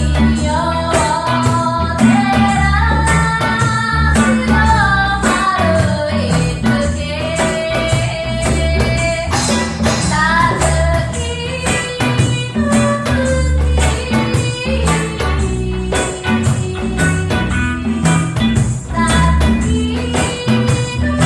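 Live band playing a reggae song: a singer carries the melody over plucked strings, a steady percussive beat and heavy bass.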